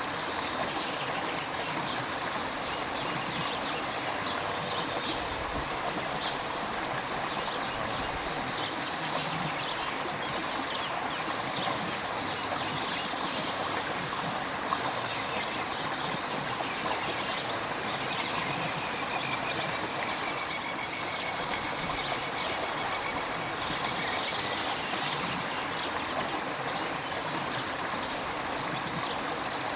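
River water running steadily, with many small splashes and trickles.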